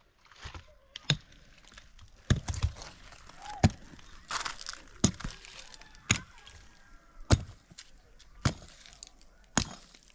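Sharp cracking knocks, repeated about once a second, over a faint background rustle.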